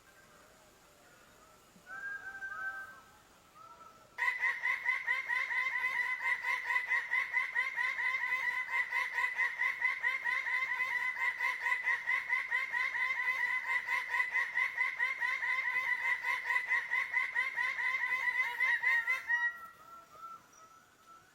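Bird of paradise calling: a long run of fast, evenly repeated notes that starts abruptly about four seconds in and lasts about fifteen seconds, with fainter calls before and after it.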